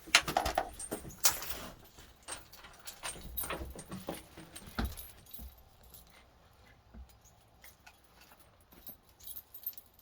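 Light clicks and rattling, as of small hard objects being handled, dense in the first couple of seconds and thinning out after about five seconds.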